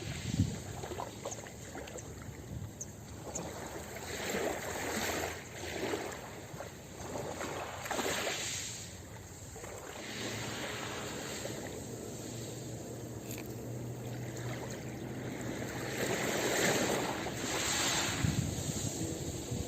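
Ocean surf washing onto a beach, the noise of the waves swelling and easing in repeated surges.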